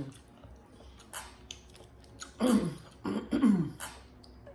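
A woman coughing and clearing her throat twice, each with a voiced drop in pitch, a little past halfway. Spicy sauce caught at the back of her throat is making her cough.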